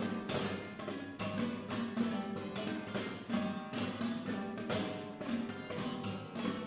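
Guitar quartet playing a dense pattern of short, sharp plucked notes, several a second and overlapping, in a rain-like texture.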